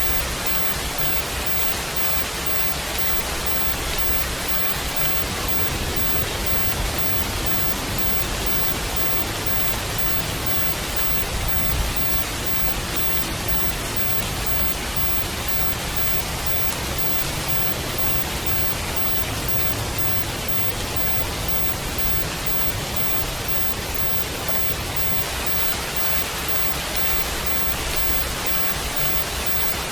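Steady rain recording: an even hiss of rainfall with no single drops or other events standing out.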